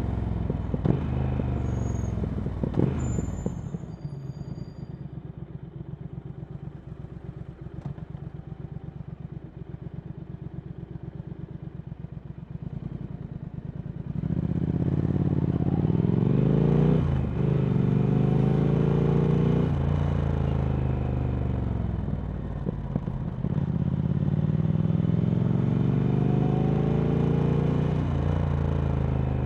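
Triumph Speed Twin 1200's parallel-twin engine through Vance & Hines slip-on exhausts: revs fall, then it idles with a steady low pulse for about ten seconds. About halfway through it pulls away, revs rising in several runs with gear changes between them.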